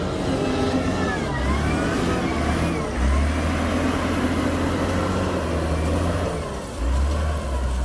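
Heavy diesel engine of construction machinery working, revving up and down, with a whine that rises and falls. It gets louder about three seconds in, dips briefly, then comes up again near the end.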